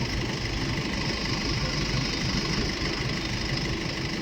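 Boeing 747-400's jet engines running steadily at low taxi power: an even rumble with a high, steady whine over it.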